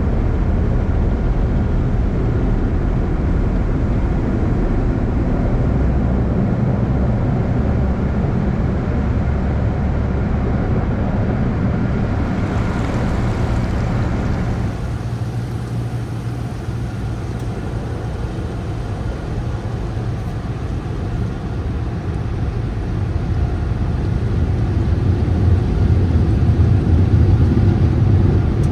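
Steady rumble and rushing noise of a tunnel car wash's machinery heard from inside the car. It eases off about halfway through and grows louder again near the end.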